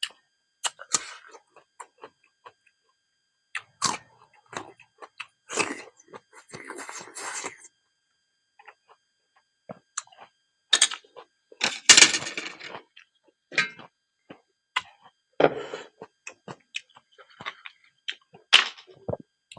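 Close-miked eating of silkworm pupae: irregular wet clicks and crunchy crackles from chewing, with a denser run of crunching about twelve seconds in.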